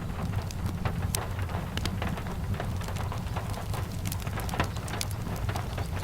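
Steady rain with a low rumble, mixed with frequent irregular sharp pops and crackles from a wood fire in a fireplace.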